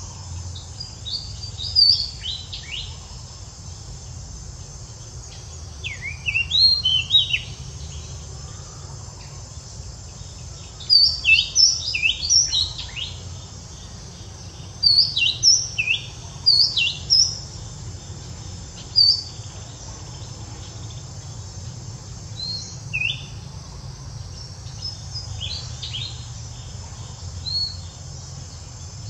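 Birds chirping in scattered clusters of quick, sharp, downward-sliding chirps every few seconds, over a steady low rumble.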